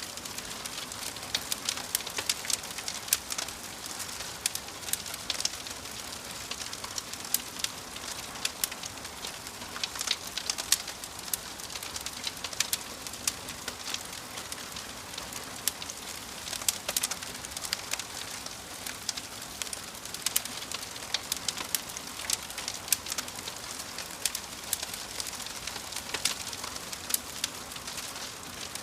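Wood fire crackling in a fireplace: frequent, irregular sharp pops and snaps over a steady hiss of burning.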